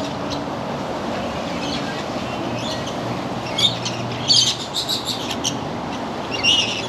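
Parrots chirping and squawking, in short quick runs of high calls over a steady background hiss, busiest from about three and a half to five and a half seconds in.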